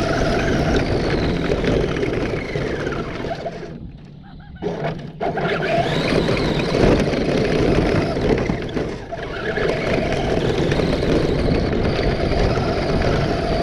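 Battery-electric RC car driving over rough ground: a noisy rumble with a faint motor whine that glides up and down in pitch, dipping briefly about four seconds in.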